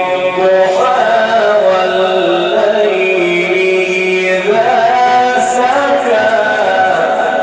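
A man's voice in melodic Quran recitation, held in long, ornamented notes that slide between pitches.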